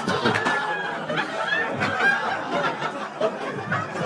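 Stand-up audience cheering and laughing, many voices at once with some whoops, with a few scattered claps.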